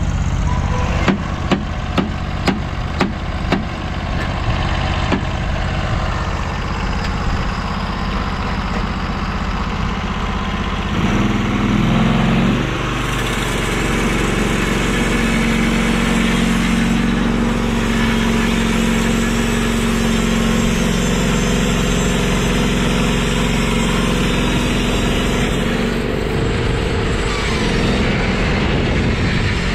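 Portable sawmill's gas engine running steadily, with a quick run of sharp clicks in the first few seconds. About eleven seconds in the engine speeds up and holds a higher, steady pitch.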